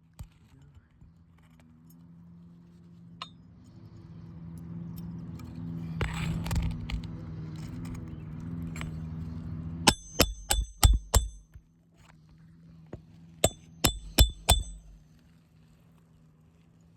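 Hammer blows with a metallic ring driving roofing nails under a shingle tab with a roof-snake tool: a quick run of about six strikes, then a second run of about five. A steady low hum swells and fades in the background before the first run.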